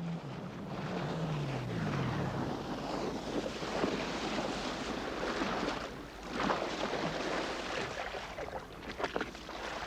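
Wind and sea noise rushing and swelling unevenly. A low tone falls in pitch over the first couple of seconds.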